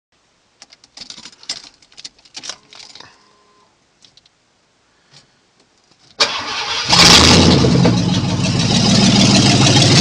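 A few faint clicks and knocks, then about six seconds in the freshly rebuilt Ford 302 V8 cranks on the starter and catches within a second. It settles into steady running, pretty loud with no headers or exhaust fitted.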